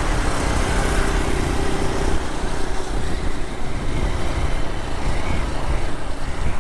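Motorcycle being ridden at road speed: the engine runs steadily under a deep wind rumble buffeting the microphone.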